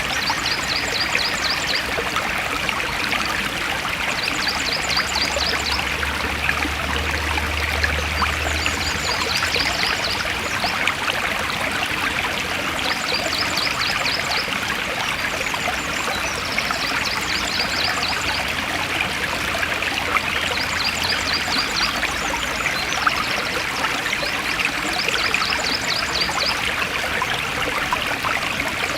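Forest stream flowing steadily over rocks. A short, high, rapid trill repeats every few seconds above the water.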